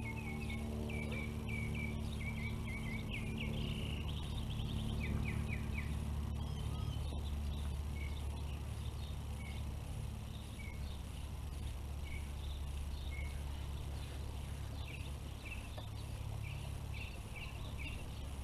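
Small birds chirping and singing in short repeated phrases, busiest in the first few seconds and again near the end, over a steady low outdoor rumble.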